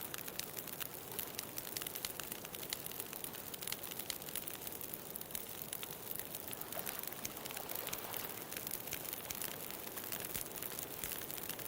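Wood fire crackling with many sharp pops and snaps, over a steady hiss of ocean waves.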